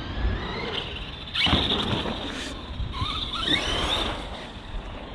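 ARRMA Outcast 4S 1/10 stunt truck's brushless motor whining as it is throttled on and off, its pitch sweeping up and down several times. A loud rush of noise comes in about a second and a half in.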